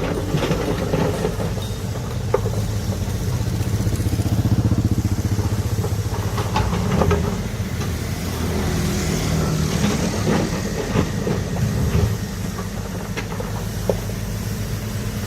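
Large diesel earthmoving machine engine running steadily with a low, pulsing rumble, with occasional sharp metallic clanks and knocks from the machine working.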